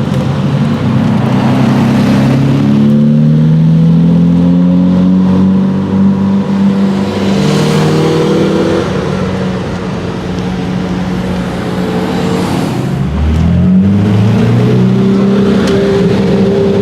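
Lamborghini Murciélago V12 engine and exhaust running hard. The pitch climbs over the first couple of seconds and holds, eases off about ten seconds in, then rises sharply again about thirteen seconds in.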